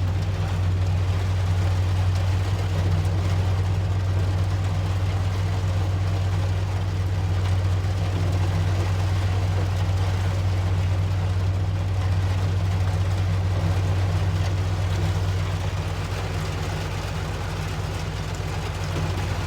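Large engine running steadily, a constant low drone with no change in speed, under an even noisy hiss.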